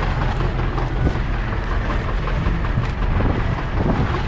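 Engine of heavy farm machinery running steadily, with wind noise on the microphone.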